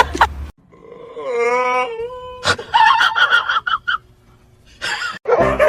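A pet's whining cries: two drawn-out, wavering calls, the second higher-pitched than the first, with a sharp click between them.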